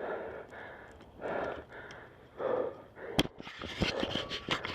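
A mountain biker breathing hard, out of breath from riding: three heavy breaths a little over a second apart. About three seconds in, a run of sharp clicks and rattles starts.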